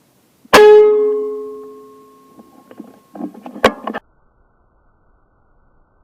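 A short guitar sting. One strummed chord rings out and fades over about two seconds, then a few rougher plucked notes and a sharp hit follow, and the sound cuts off abruptly.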